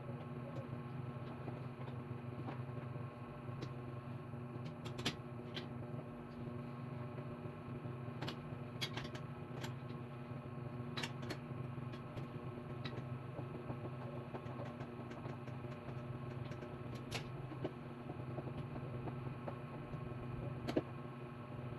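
Scattered light clicks and taps of parts and tools being handled during the assembly of a small work table, over a steady low hum.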